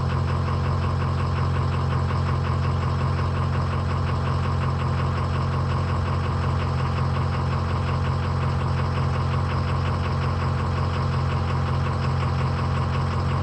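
Ford 6.0 Powerstroke V8 turbodiesel idling steadily, with an even, rapid diesel clatter.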